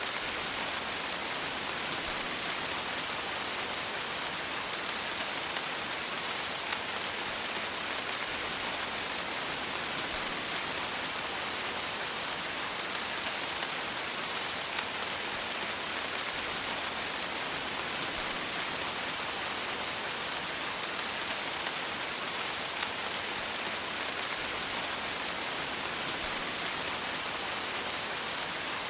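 Steady rain falling: an even hiss with faint scattered drop ticks and no change in strength.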